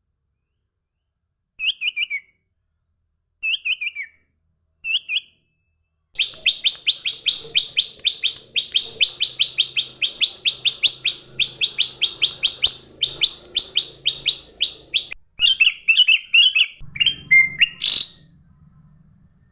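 A songbird singing: three short falling phrases, then a long fast trill of evenly repeated notes lasting about nine seconds, ending in a few varied notes.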